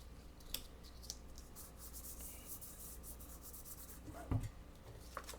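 Faint rubbing and scratching as Fabri-Tac fabric glue is spread onto paper and the paper is handled, with small clicks and a brief thump a little past four seconds in.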